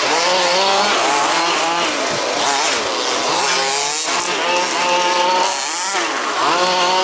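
Several 1/5-scale RC buggies' small two-stroke petrol engines racing together, each revving up and easing off in overlapping rising and falling whines.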